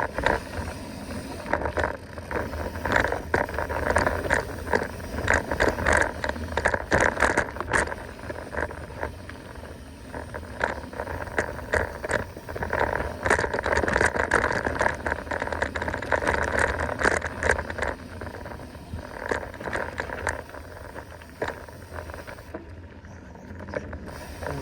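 Mountain bike descending a dirt trail at speed: tyres rolling over dirt and rocks, with frequent sharp clattering knocks as the bike rattles over bumps.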